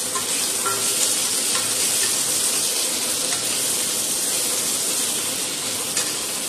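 Shallots, tomato pieces, curry leaves and dried red chillies sizzling steadily in oil in a stainless-steel kadai while being stirred with a wooden spatula, with a few light scraping clicks. The onion and tomato are sautéed soft.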